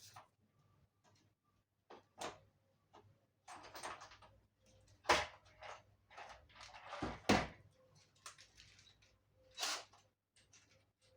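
Irregular knocks, clicks and scraping of a tumble dryer's panels and parts being handled, as during disassembly. The heaviest thump comes about seven seconds in.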